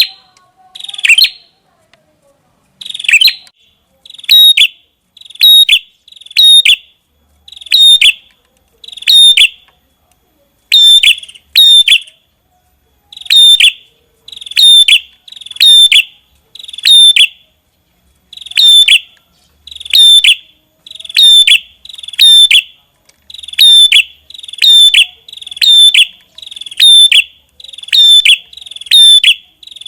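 Red-headed prenjak (Indonesian "prenjak kepala merah", a small tailorbird-type warbler) calling loudly and continuously: a sharp, high call note repeated about once a second, often in quick pairs, with only brief pauses.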